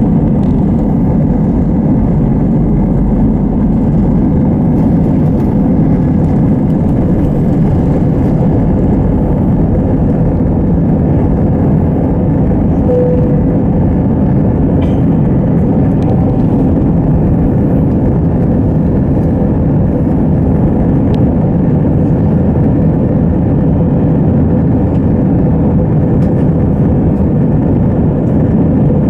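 Airbus A320 airliner's engines and airflow, heard as a steady, even rumble with a faint constant hum.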